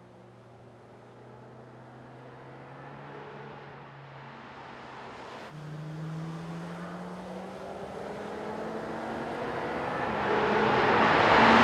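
Mercedes-AMG GT Black Series' V8 with a flat-plane crankshaft running at a steady pitch as the car approaches, growing steadily louder. About halfway through, the engine note steps up a little and then climbs slowly.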